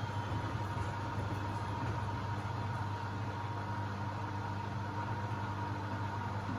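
Beko WMB71642W washing machine in its intermediate spin at 1000 rpm: a steady drum rumble, with a thin, even motor whine above it.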